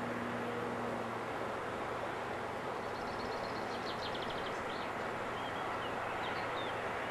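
Steady, distant rumble of a freight train of tank wagons hauled by a DB Class 185 electric locomotive, heard from far above the line as an even wash of noise. A small bird chirps and trills from about three seconds in.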